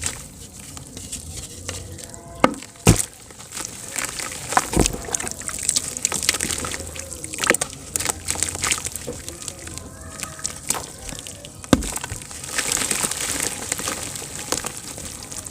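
Chunks of soft dirt crumbling in water: a steady fizzing hiss with scattered sharp plops and cracks. The loudest come about three seconds in and again near twelve seconds.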